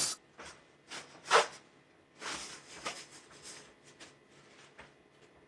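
Faint scattered kitchen handling sounds: a few light knocks and clatters of utensils and dishes, the loudest about a second and a half in, and a short rustle or scrape a little after two seconds.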